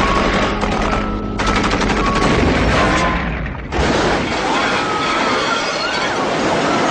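Film soundtrack: rapid machine-gun fire over rock music, then a sudden loud burst of noise about four seconds in that carries on with wavering, wailing tones.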